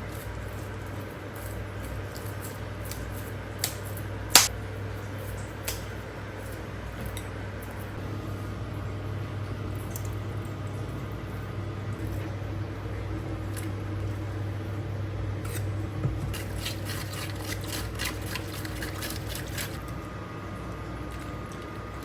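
Kitchen work: dishes and utensils clinking and tapping, with one sharp clack about four seconds in and a run of quick clicks near the end, over a steady low hum.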